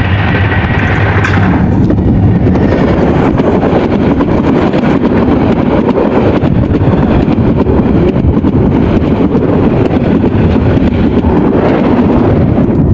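Karatoya Express passenger train passing close by: a loud, steady rumble with rapid clattering of the wheels over the rails.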